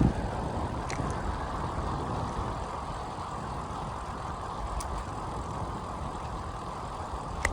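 Steady rush of wind and rolling road noise while riding a bicycle, with a few faint clicks.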